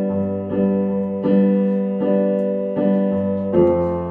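Piano accompaniment playing repeated sustained chords, one roughly every three-quarters of a second, with the bass shifting to a new chord near the end.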